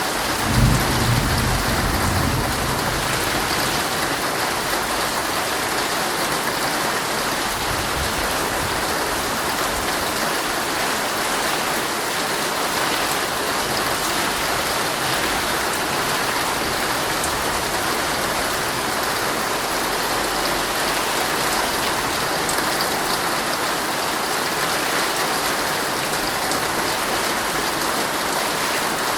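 Heavy rain falling steadily on a tent, heard from inside. About a second in, a short low rumble of thunder rises over the rain.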